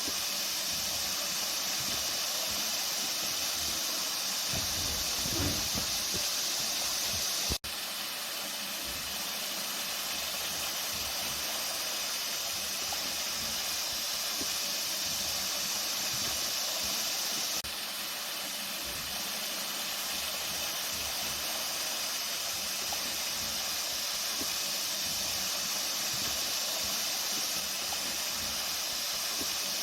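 Flowing water rushing steadily, a continuous even hiss, with a momentary break about eight seconds in.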